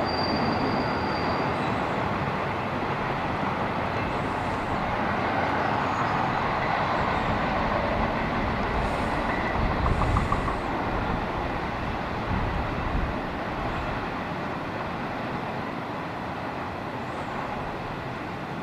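Norfolk Southern freight train rolling past at a distance: a steady rumble of the cars on the rails, easing off a little toward the end, with wind buffeting the microphone.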